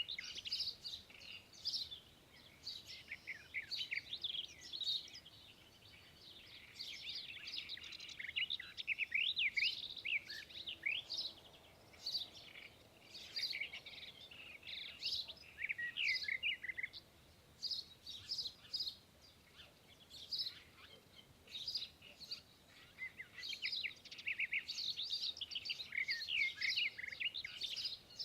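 A group of small songbirds chirping and twittering, many short rapid calls overlapping, with a couple of brief lulls partway through.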